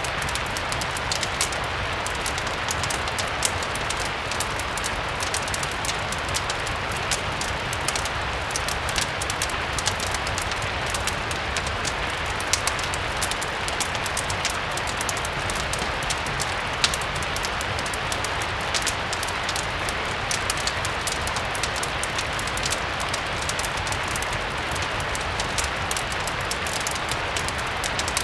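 Steady rain blended with a crackling wood fire: an even hiss of rainfall under many small, scattered pops and ticks.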